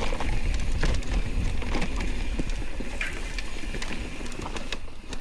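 Mountain bike riding down a dirt trail: a continuous rumble of tyres and wind, with the bike rattling and knocking over rough ground, easing off slightly near the end.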